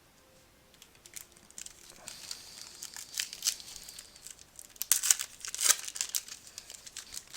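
Wrapper of a 2014 Prizm football card pack being torn open and crinkled. The crackling starts about a second in and comes in scattered bursts, loudest around the middle and again a little later.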